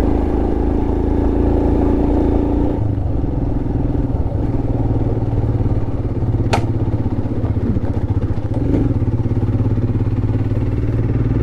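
Royal Enfield Himalayan's single-cylinder engine running as the bike is ridden, with a change in the engine note about three seconds in. About six and a half seconds in there is one sharp tick: a stone thrown up and striking the bike, which the rider thinks hit the fuel tank.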